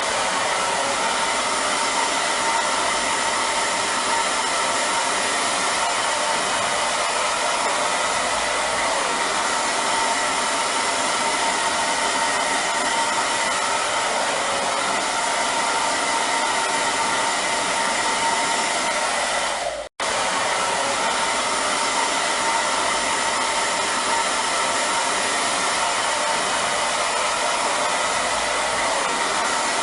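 Hair dryer running steadily, a constant rush of blown air with a faint motor whine. About two-thirds of the way through, the sound cuts out for a split second and resumes unchanged.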